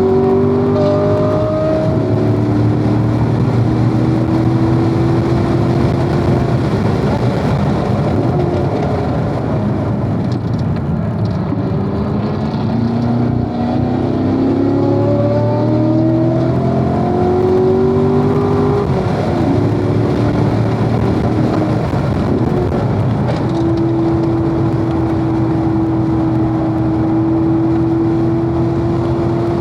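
Corvette V8 at track pace, heard on board: the engine note climbs again and again as it accelerates through the gears, over a steady rush of wind and tyre noise. The revs fall away about a third of the way through, then settle into one steady, held note near the end.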